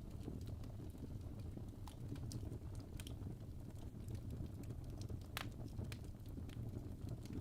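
Fireplace crackling: a steady low rumble of burning, with sparse, irregular sharp snaps and pops, one louder pop about two-thirds of the way in.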